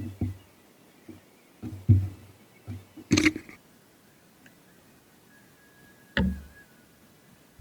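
Irregular knocks and clunks of objects being handled and set down, about eight in all, the loudest a sharp clack a little after three seconds in and another solid knock about six seconds in. A faint thin tone is heard from about five to six and a half seconds.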